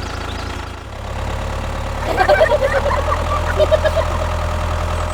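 An engine idling steadily with a low pulsing hum, dipping briefly about a second in. A run of short high chirps sounds over it in the middle.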